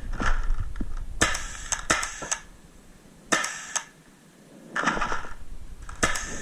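Paintball markers firing in short strings of sharp pops, four groups of two to five shots a second or so apart, after a rumble of movement in the first second.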